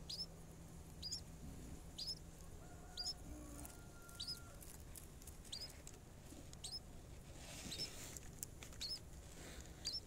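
A small bird giving short, high, thin chirps, repeated about once a second.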